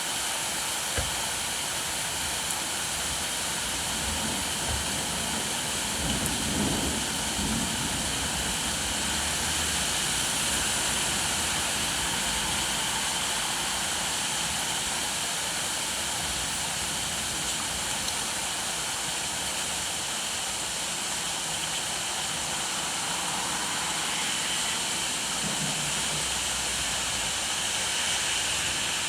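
Steady rainfall, an even hiss, with a couple of faint low rumbles underneath, about six seconds in and again near the end.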